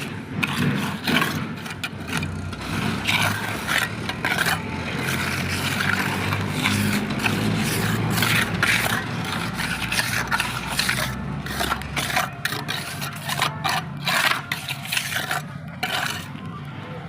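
A tool scraping over and over on a rough surface in quick, irregular strokes, with a low steady hum underneath that drops away about two-thirds of the way through.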